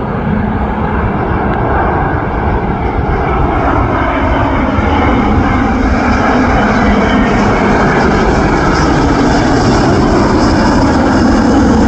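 Jet airliner on approach passing low overhead. Its engines make a loud rushing roar that slowly grows louder.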